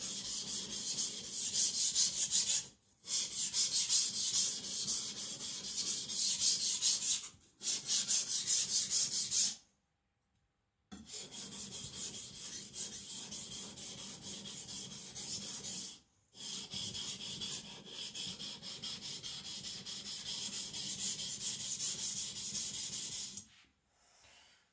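Carbon-steel gyuto blade stroked rapidly back and forth on a Naniwa Aotoshi water stone: a gritty, even scraping in several runs with short pauses between them, thinning the blade behind the edge.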